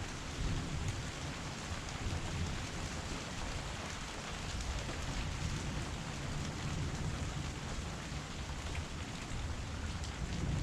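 Heavy rain falling steadily in an even hiss, with an uneven low rumble underneath.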